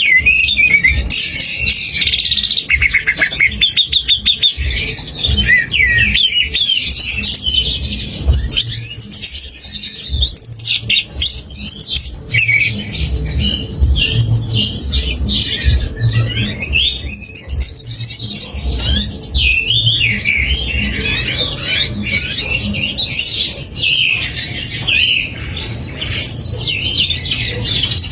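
A layered medley of recorded songbird song: rapid chattering, fast trills and whistles packed densely together without pause, over a low pulsing beat underneath.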